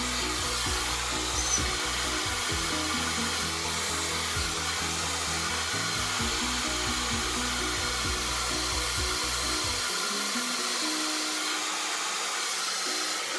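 FHI Heat EPS 2100 hair dryer with a concentrator nozzle running steadily, blowing hot air onto hair rolled on a round brush. Background music with a repeating bass line plays underneath, its lowest notes dropping out about ten seconds in.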